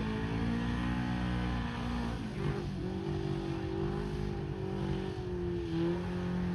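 Mega truck's big engine running hard at high revs, its pitch wavering, dipping briefly about two seconds in and then climbing back.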